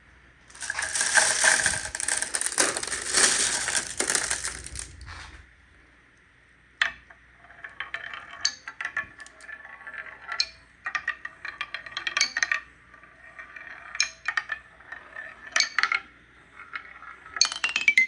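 Many marbles clattering down a wooden marble run in a dense rush for about four and a half seconds, then scattered clicks and short rattles as marbles roll and knock along the track.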